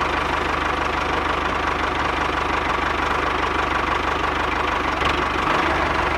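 A motor or small engine running steadily at an even, rapid pulse, with no change in speed.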